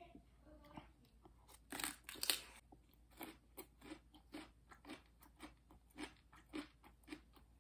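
Close-up crunchy chewing of a mouthful of raw red radish, in a steady rhythm of about three crunches a second, with a louder burst of crunching about two seconds in.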